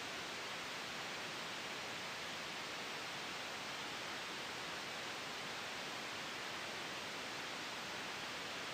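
Soft white noise for sleep: a steady, even hiss that does not change, with no gusts or separate sounds.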